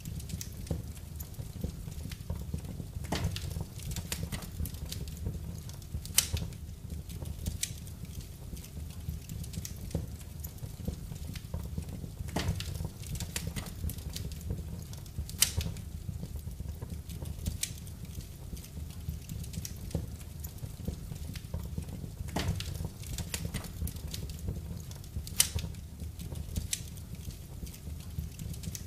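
Wood fire burning in a fireplace: irregular crackles and snaps over a low steady rumble, with three louder pops spread about nine seconds apart.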